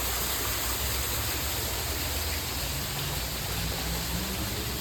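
Steady rushing hiss with a low rumble underneath, even throughout; a faint low hum joins near the end.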